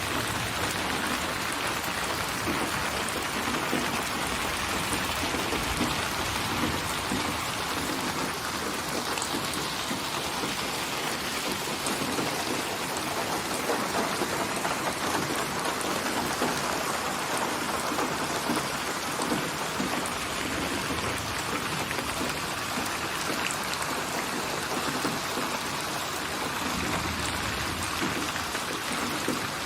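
Steady rain falling, an even hiss that goes on without a break.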